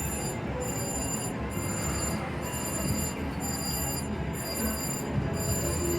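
Casino floor din with slot machine game music: a steady murmur under high electronic tones that pulse about once a second.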